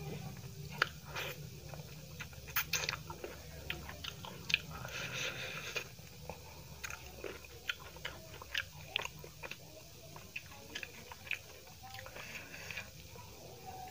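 Close-miked eating by hand: wet chewing with many sharp mouth clicks and smacks as a mouthful of rice and drumstick-potato curry is chewed, with a soft rustle of a tawa roti being torn near the end.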